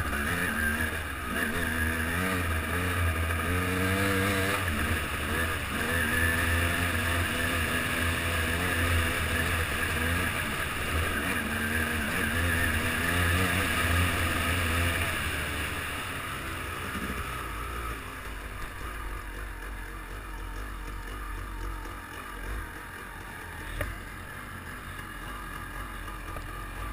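Yamaha WR250Z two-stroke enduro engine heard from a camera on the bike, its pitch rising and falling as the throttle is worked over a rough dirt track. About halfway through it eases off and runs quieter at low revs.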